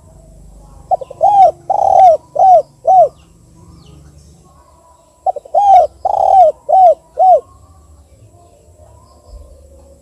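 Spotted dove (tekukur) cooing: two song phrases about four seconds apart, each a quick short note followed by four rounded coos.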